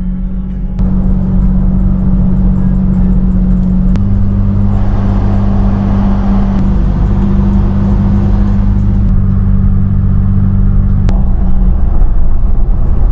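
Toyota Tacoma pickup driving uphill, heard from inside the cab: a steady low engine drone with road and wind noise. The drone's pitch shifts abruptly about a second in, at about four seconds, and again near eleven seconds.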